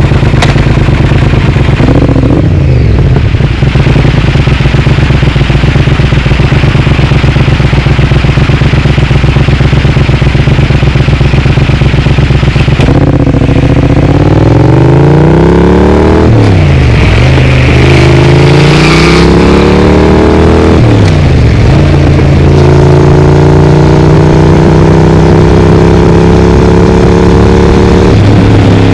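Triumph Speed Twin's parallel-twin engine through a Vance & Hines exhaust, running steadily, then accelerating about halfway through: the note climbs, drops at a gear change, climbs again, drops at a second shift, and settles into steady cruising.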